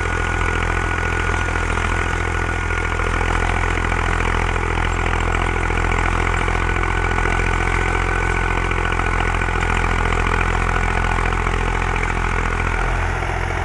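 Zetor tractor's diesel engine running steadily under load during a field pass, with a thin steady whine above the engine hum.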